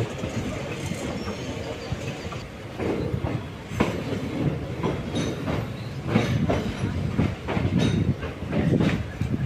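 Auroville Express passenger coaches rolling at speed, with a steady rumble and irregular wheel clatter over rail joints and the points of a station yard. The clatter grows louder and busier from about three seconds in.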